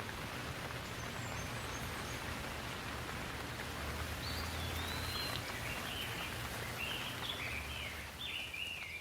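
Steady rain falling over a low rumble, with a bird singing a run of high whistled notes that step up and down from about four seconds in.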